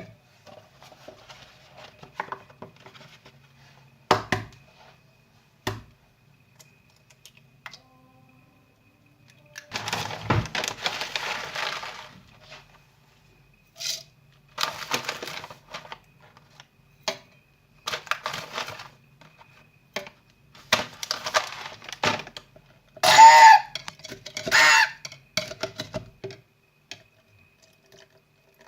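Intermittent kitchen handling noises: a string of noisy bursts, each a second or two long, mixed with sharp clicks and knocks, with the loudest burst near the end.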